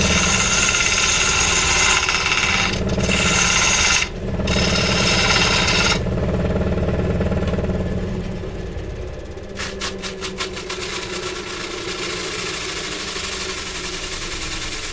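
Petrol chainsaw running hard for about six seconds, with three brief drops in revs, then falling to a quieter running sound. A quick run of clicks comes about ten seconds in, followed by a steady hiss.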